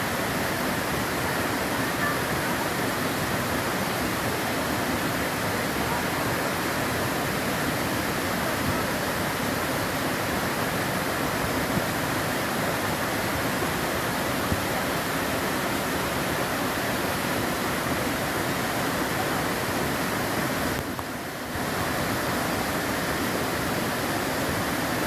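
Waterfall falling in a steady, even rush of water, dipping briefly a little before the end.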